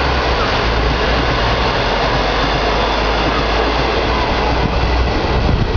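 A train passing close by: a locomotive's steady low engine rumble under a loud, even rush of running noise.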